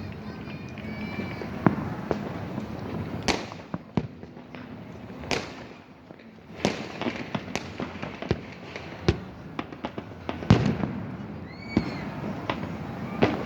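New Year fireworks going off all around: a steady crackle with sharp bangs at irregular intervals, the loudest about ten and a half seconds in, and a few short whistles.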